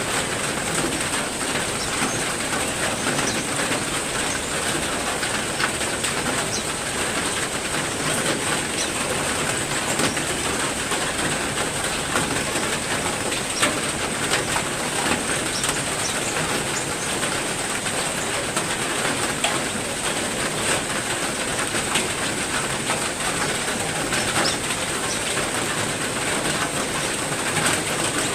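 Heavy rain falling steadily, a dense hiss full of small drop ticks, with small birds chirping briefly now and then.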